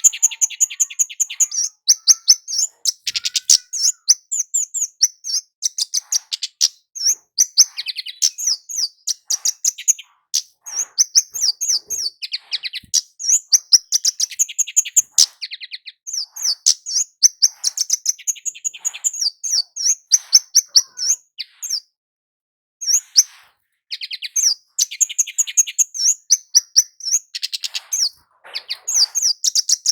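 Kemade, a flowerpecker, calling in fast runs of sharp, high-pitched chirps, with a short break about two-thirds of the way through.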